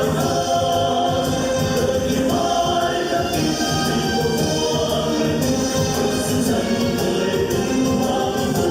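A choir singing together over instrumental backing music, with long held notes.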